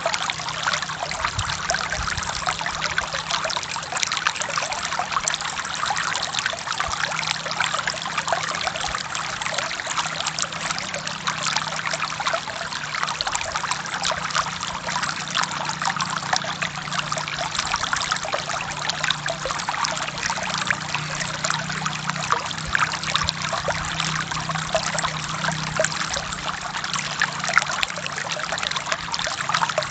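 Forest stream flowing and splashing over rocks, a steady trickling rush with a faint low burble underneath.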